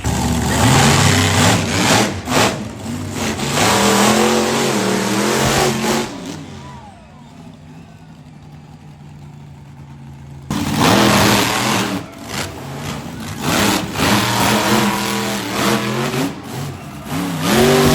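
Monster truck engine revving hard, its pitch rising and falling in repeated bursts. About six seconds in it drops to a quieter stretch, then the loud revving starts again abruptly about four seconds later.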